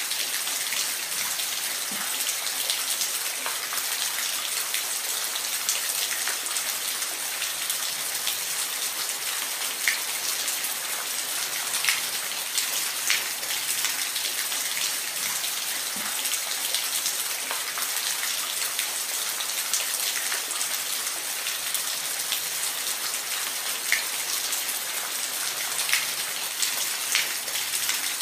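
Steady rain with an even hiss, and individual drops ticking sharply every second or two.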